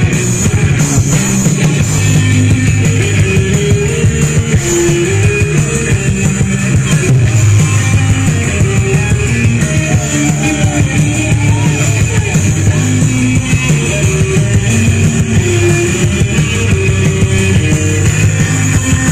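Rock band playing loud instrumental music live, with a stepping melody line over a heavy, steady bass.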